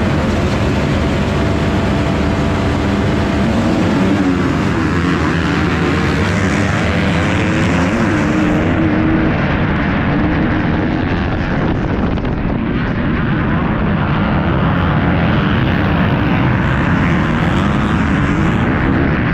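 Motocross bike engines running at high revs, the pitch rising and falling with the throttle and gear changes.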